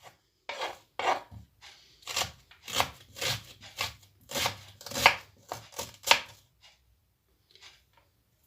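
Kitchen knife chopping onion on a cutting board: irregular sharp strokes, about two a second, that stop about six seconds in, followed by a few faint taps.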